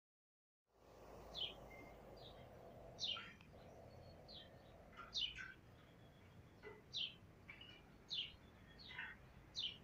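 Silence at first, then from about a second in, a bird chirping: short, high chirps falling in pitch, roughly one a second, over faint outdoor background noise.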